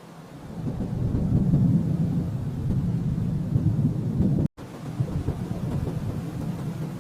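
Rolling thunder: a low rumble that swells over the first second or two, cuts out abruptly for a split second about four and a half seconds in, then resumes and slowly fades.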